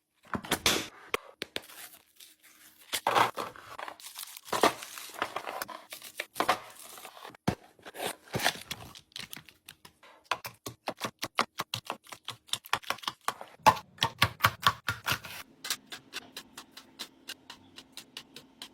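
Fridge restocking: plastic packaging crinkling and tearing, with sharp clicks and taps of containers being handled and set down, and a quick run of taps in the second half.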